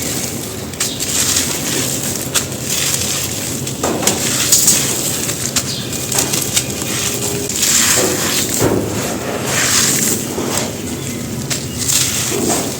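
Clumps of gritty red dirt being crushed and crumbled onto a floor: continuous grainy crunching with sharp snaps, in heavier spells about a third of the way in and again past the middle.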